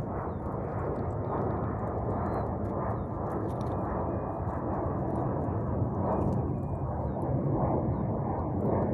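Wind buffeting the microphone, a dense steady rumble, with faint crunching footsteps on the glass-and-pebble beach.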